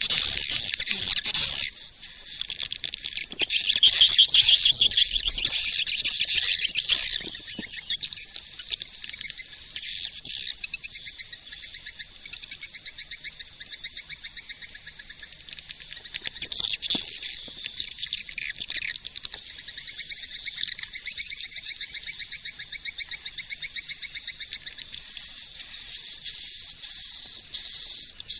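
Swiftlet lure-call recording: dense, high-pitched twittering chatter of swiftlets made of rapid clicking pulses, loudest in the first several seconds, then somewhat quieter. It is the kind of call track played from speakers in a swiftlet house to draw swiftlets in to roost and nest.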